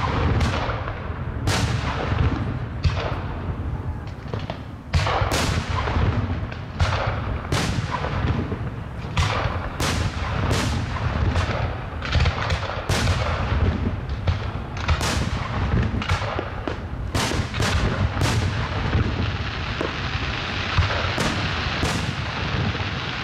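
Fireworks display: aerial shells bursting in quick succession, a sharp bang about every second over a steady low rumble, with a denser crackling hiss building near the end.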